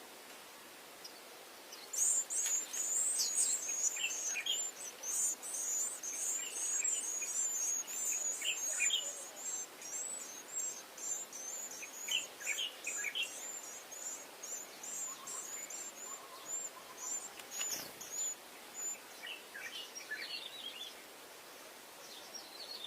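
White-eyes chirping: a fast run of high, thin chirps starts about two seconds in and goes on until a few seconds before the end, with lower call notes now and then. There is a single short knock about three-quarters of the way through.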